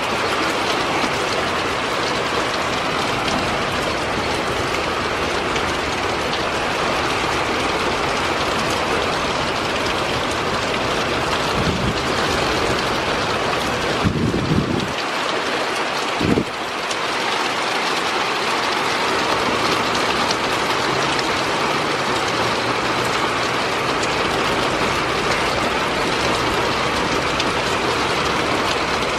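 Heavy thunderstorm rain pouring down in a steady, loud downpour, with a few dull thumps around the middle.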